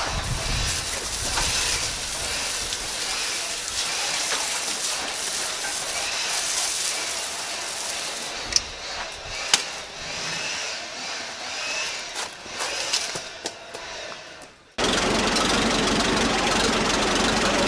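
1940 Fordson N tractor's four-cylinder engine running, with a few sharp clicks over it. Near the end the sound cuts suddenly to a louder, steady engine run.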